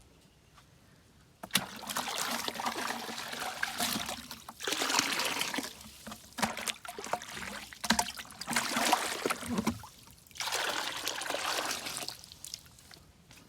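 Water pouring and trickling in about four spells with short breaks between them, starting about a second and a half in and stopping near the end.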